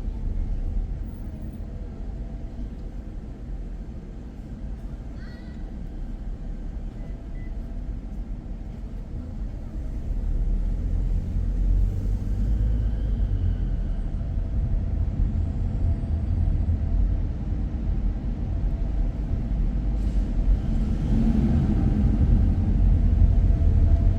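Car driving, with a steady low rumble of engine and road noise that grows louder about halfway through.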